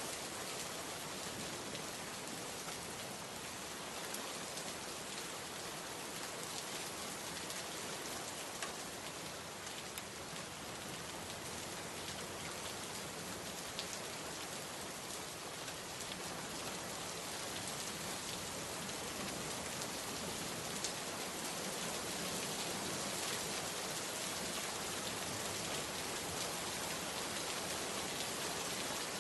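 Steady heavy rain falling on surfaces, a dense even hiss with many small drop ticks.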